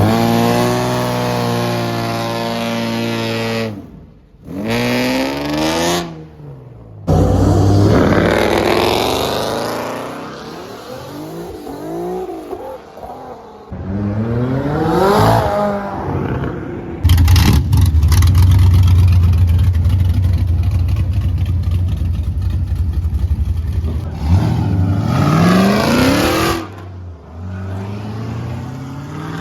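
Car engines revving hard, heard in a string of short clips that cut off suddenly, with the pitch sweeping up on each rev. In the middle a long stretch is held loud and steady at high revs.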